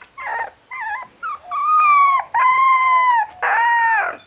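Dog whining and howling: a few short yelping cries, then three long, high howls one after another.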